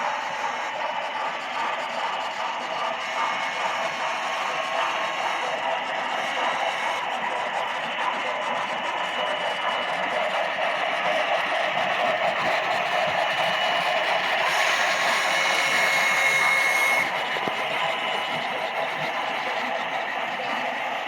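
HO scale model train running on the layout: a steady rolling and motor noise that swells a little about two-thirds of the way in, with a brief thin high whine.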